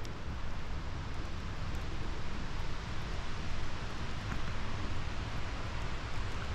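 Wind buffeting the microphone outdoors: a steady rushing hiss with uneven low rumbling.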